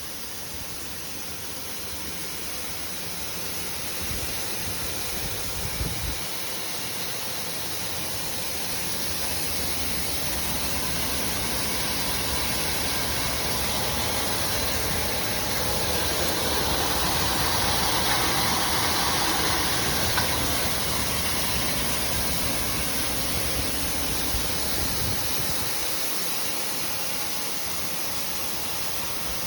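Grain cleaning and washing machinery running: a steady mechanical noise with a hiss and a faint hum, swelling gradually to its loudest about two-thirds of the way through and then easing off.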